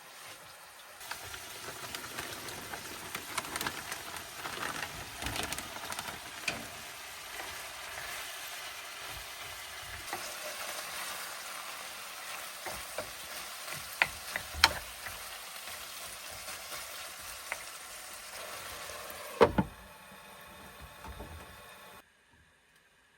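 Steady sizzling and crackling hiss, with a few sharp knocks: two close together about two-thirds through and the loudest one near the end. It cuts off abruptly just before the end.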